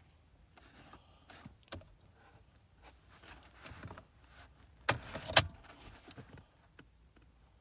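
Light handling clicks and rattles, with two sharp clicks about half a second apart near the middle.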